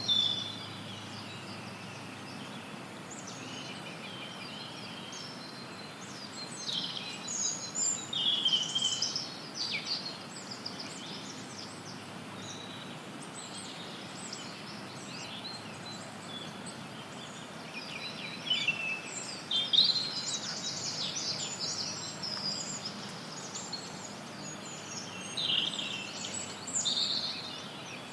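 Songbirds singing and calling in a forest over a steady hiss of white noise, with bursts of song at the start, around a quarter of the way in, in the middle and near the end.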